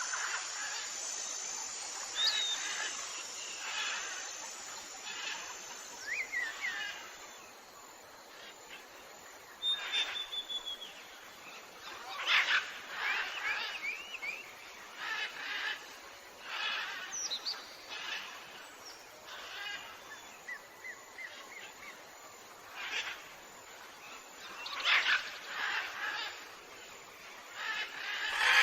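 Tropical jungle birds calling: a scatter of short chirps, whistled glides and rapid call series from several birds, overlapping at irregular intervals. A steady high-pitched pulsing tone runs beneath them for the first several seconds, then stops.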